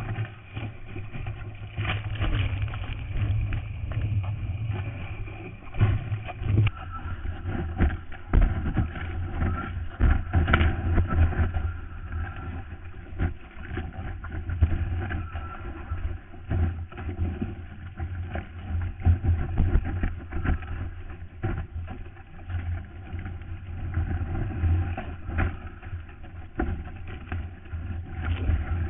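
Muffled rush of water and wind through a surfer's GoPro waterproof housing, a steady low rumble broken by frequent irregular knocks and thumps.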